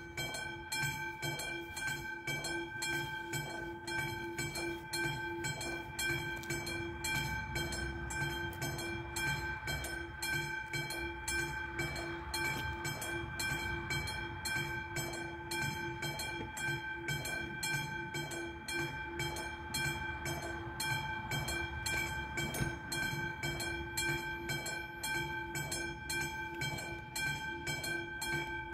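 Classic electromechanical level-crossing warning bell ringing with rapid, even strokes, which sets off abruptly at the start as the crossing's warning is triggered.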